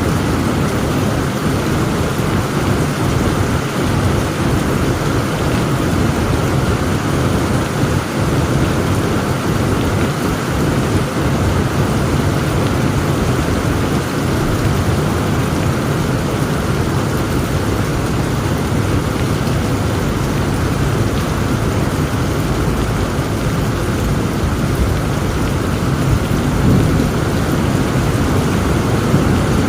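Heavy rain pouring steadily with low, rolling thunder underneath; the rumble swells near the end.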